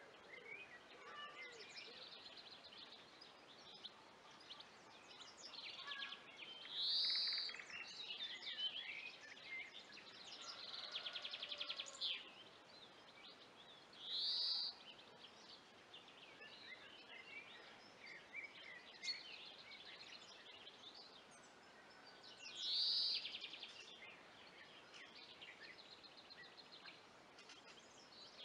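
Birdsong from several birds. One loud, high, rising-and-falling call comes three times, about eight seconds apart, with quicker chirps and a few rapid trills between.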